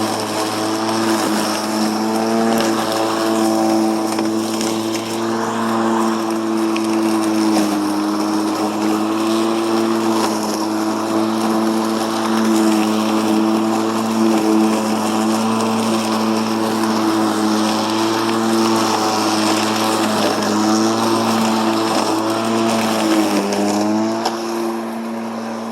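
Ego 56-volt 21-inch battery push mower running with its blade cutting two-foot-tall grass: a steady motor-and-blade hum whose pitch sags briefly a few times as the thick grass loads it, most deeply near the end.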